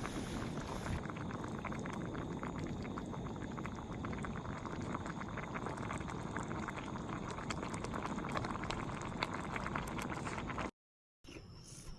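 A pot of broth bubbling at a steady boil, with dense popping and crackling. It cuts off abruptly near the end.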